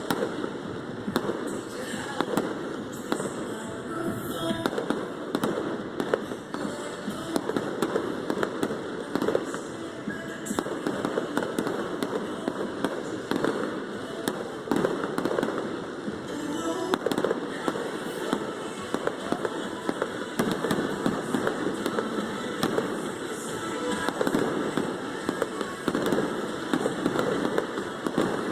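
A fireworks display bursting and crackling in a rapid, unbroken barrage, many reports a second, with pop music playing over the public-address system.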